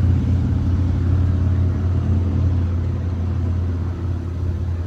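A vehicle's engine running with a steady low hum.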